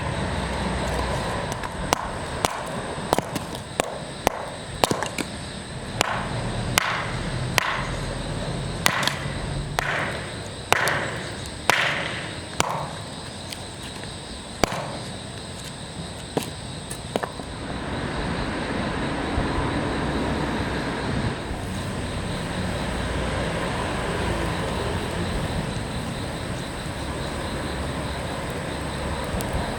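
A run of sharp knocks or cracks, irregular and a second or so apart, some with a short ring after them, stopping after about seventeen seconds; a steady even rushing noise follows.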